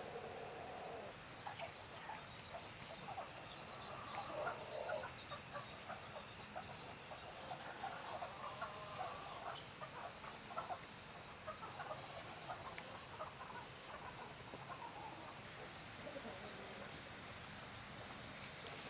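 Chickens clucking in short, irregular calls, busiest through the middle, over a steady high whine.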